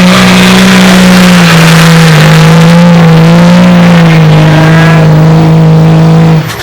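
Pulling truck's diesel engine held at full throttle as it drags the weight sled, a loud steady high-revving drone with slight dips in pitch, stopping abruptly near the end.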